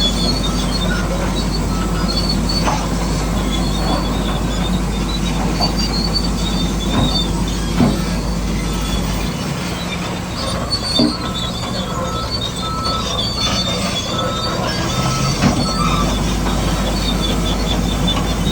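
Bulldozer at work: a steady motor drone with its tracks squealing and clanking, and a few sharp knocks along the way.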